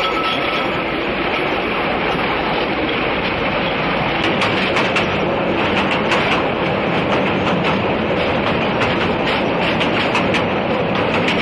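Train carriage running along the rails: a steady rumble of wheels on track, with a quick clatter of sharp clicks joining in about four seconds in.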